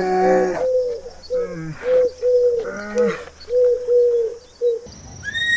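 Pigeons cooing: a run of short, repeated coos, about two a second.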